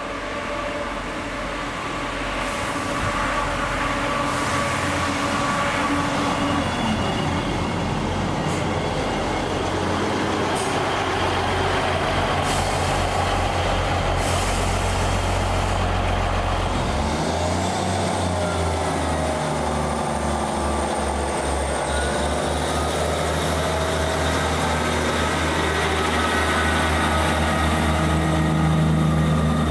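A train running close by at a station: a steady, loud, low engine hum with whining tones. About halfway through the low hum changes, and whines rise in pitch, as when a train moves off.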